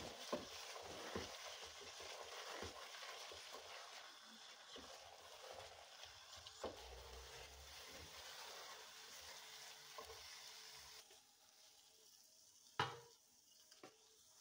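Shami kabab mixture of shredded chicken and lentils frying in oil in a pressure cooker, a steady faint sizzle while a wooden spoon stirs and scrapes it, with light knocks of the spoon against the pot. The sizzle drops away about eleven seconds in, and one sharp knock comes near the end.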